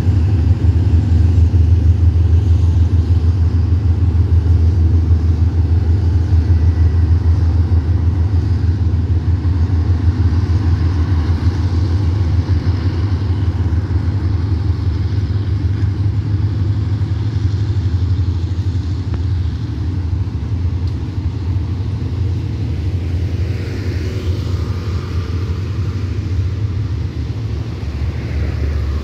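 Long passenger train of coaches rolling past on the track: a steady low rumble that slowly fades over the last few seconds.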